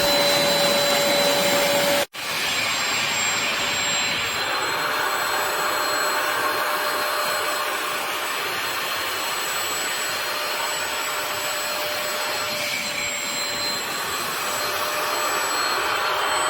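HAUSHOF StainZapper 400 W upholstery wet vacuum running with a steady suction rush and a high whine. The sound cuts out for an instant about two seconds in, then carries on unchanged.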